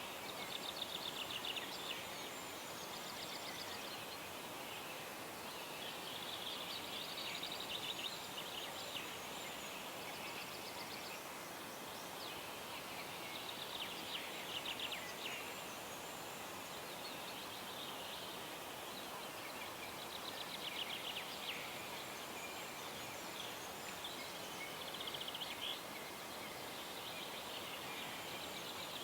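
Birds singing at dawn by a calm pond: short phrases of rapid trills repeating every few seconds over a steady background hiss.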